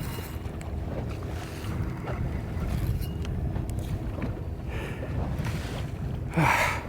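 Wind rushing over the microphone on a small boat at sea, with water moving against the hull. A short, louder burst of noise comes near the end.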